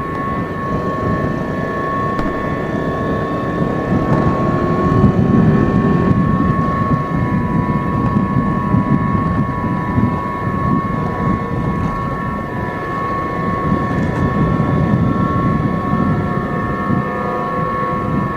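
Yamaha Jupiter Z four-stroke underbone motorcycle running under way, its engine rumble rising and falling with wind buffeting the microphone. A steady high-pitched drone sits above it.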